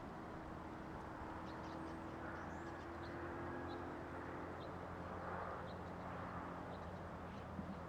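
A steady low engine drone, with a small bird giving short high chirps about once a second over it.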